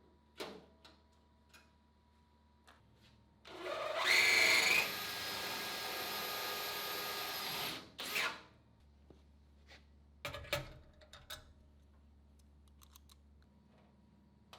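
Handheld power tool working on sheet metal: it runs for about four seconds, loudest as it first bites, then holds steady, with a short second burst just after. Light clicks and knocks of metal parts being handled come before and after.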